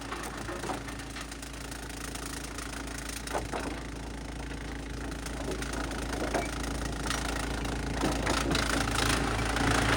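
Large industrial wood chipper's engine running steadily, with a few scattered knocks and a gradual rise in loudness toward the end.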